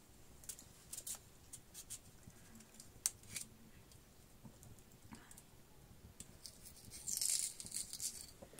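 Kitchen knife cutting and scoring raw potato halves: scattered short scrapes and clicks of the blade through the flesh, with a louder scraping rush about seven seconds in.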